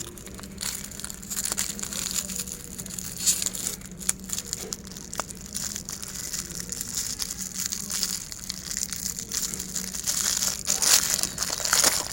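Meat grinder crushing giant hard-candy lollipops: a dense run of irregular cracking and crunching over a steady low hum, growing louder and busier near the end.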